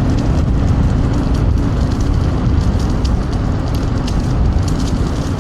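Wind rushing and buffeting over a jacket-clipped microphone while riding an electric scooter at speed, a loud steady rumble with a faint hum underneath.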